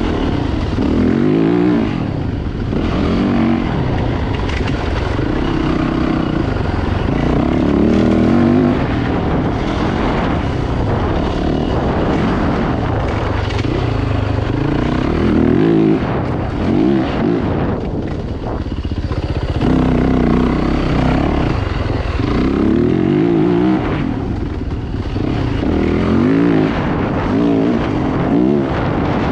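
Dirt bike engines revving, their pitch rising and falling again and again as the bikes accelerate and back off, over a steady engine rumble.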